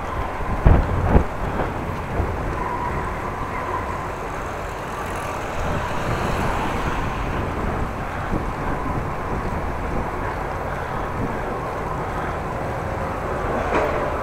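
Wind buffeting the microphone of a camera on a moving bicycle, a steady rushing noise, with two short knocks about a second in.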